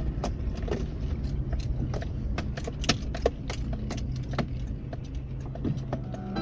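Raindrops dripping irregularly onto a hard surface, sharp ticks a few times a second, over a low steady hum.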